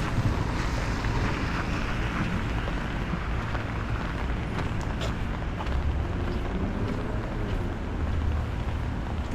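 Steady outdoor ambience of a rainy city street: a low rumble with a hiss of rain above it and a few faint sharp ticks.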